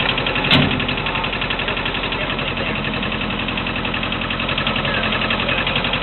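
Tractor engine running steadily with an even, rapid beat, and one sharp clank about half a second in.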